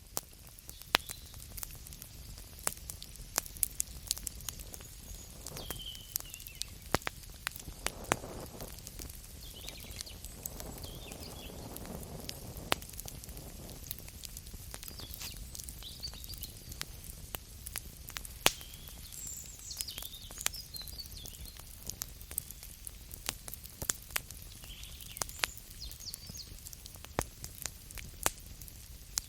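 Campfire crackling, with sharp pops at irregular moments over a steady low rush of burning.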